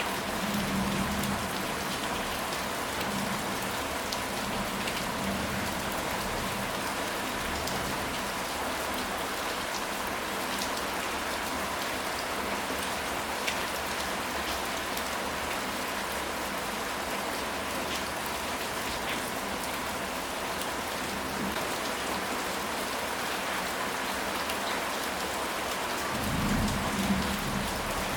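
Steady rain falling on a surface, with a low rumble of thunder swelling up near the end.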